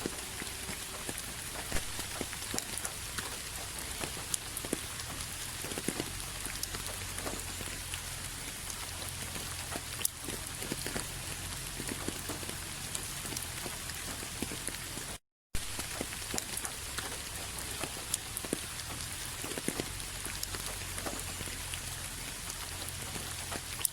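Steady rain falling on a surface, with many individual drops tapping distinctly through the even hiss. The sound cuts out completely for a split second about two-thirds of the way through, then resumes unchanged.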